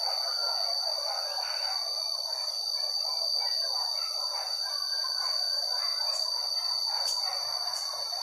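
Forest ambience: a steady high-pitched insect drone, with bird calls and a busy chattering noise beneath it. There are a few brief clicks in the second half.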